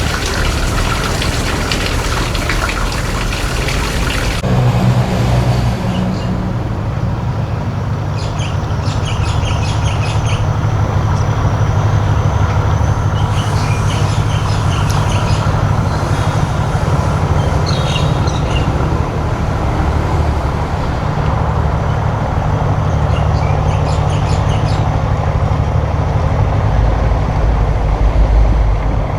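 A boat's engine running steadily with a low drone. It follows a loud rushing hiss of water that cuts off about four seconds in.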